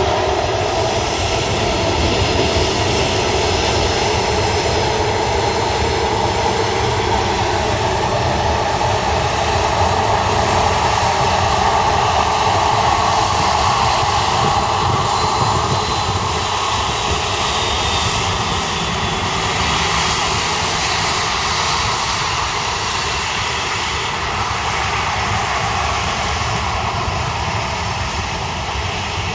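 Boeing 737 jet engines running with a steady, dense rush, a faint high whine sliding slightly down in pitch about halfway through.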